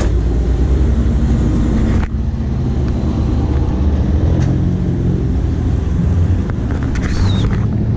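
Car engines idling close by: a steady, loud low sound with no revving.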